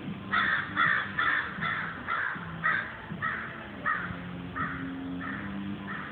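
A bird giving a series of about eleven short, harsh calls, coming about two a second at first and slowing toward the end.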